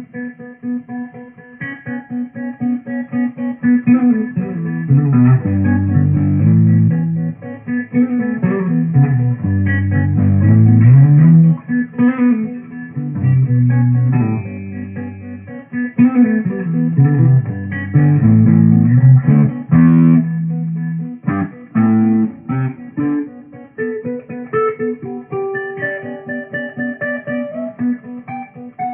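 Solo guitar improvisation: a fast, steadily repeated note rings over bass-string runs that fall and climb again every few seconds.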